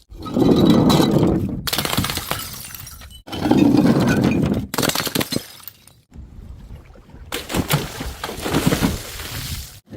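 Glass bottles smashing one after another, each a loud crash followed by tinkling, scattering shards. The crashes come in short pieces that cut off suddenly.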